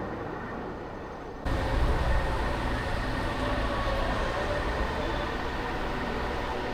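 Road and traffic noise heard while driving a car through city streets, a steady rumble and hiss. About one and a half seconds in it suddenly gets louder and deeper, then stays steady.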